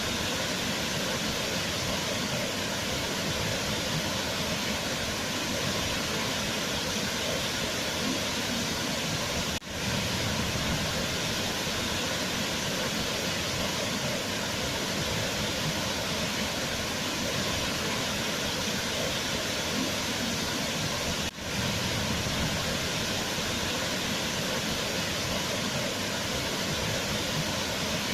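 Waterfall: a steady, even rush of falling water, with two split-second drops in level partway through.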